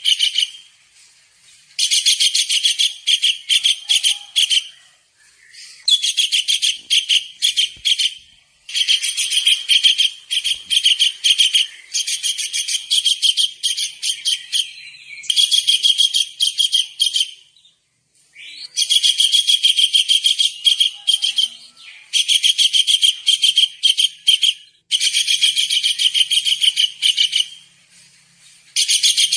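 A kingfisher (tengkek udang) calling in rapid strings of high, sharp notes. The strings come in repeated bursts of two to three seconds, separated by short pauses.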